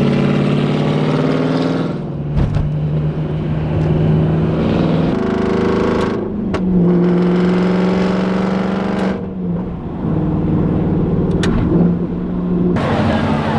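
Straight-piped Aston Martin Vantage exhaust, very loud and ear-piercing, its engine note stepping up and down in pitch several times as the car drives on.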